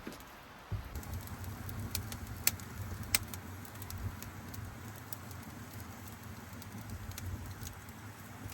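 Wood fire burning, with a few sharp crackles and pops over a steady low rumble that starts under a second in.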